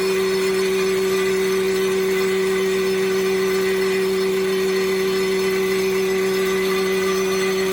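Combined woodworking planer's motor running steadily, a constant hum with no change in pitch or level.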